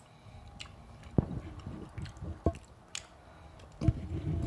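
Close-up chewing of a man eating beef pot pie, with wet mouth noises and a few sharp clicks.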